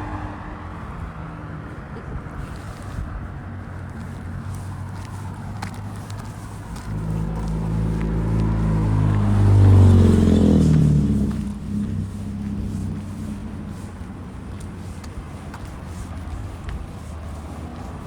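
A car passes by on the road. Its engine grows louder to a peak about ten seconds in, then drops in pitch as it goes away. A steady low engine hum from traffic runs underneath.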